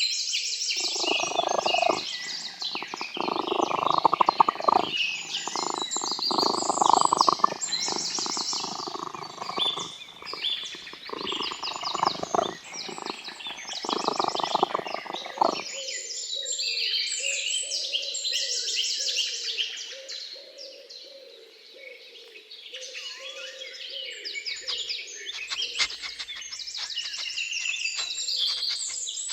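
Many small birds chirping and twittering, with a lower sound coming in bursts through the first half that stops about halfway through.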